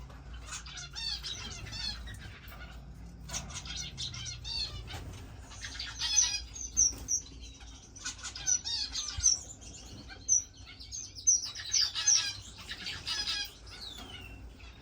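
A room full of caged finches chirping and calling all at once: many short, high notes overlapping, getting busier and louder from about halfway through, over a steady low hum.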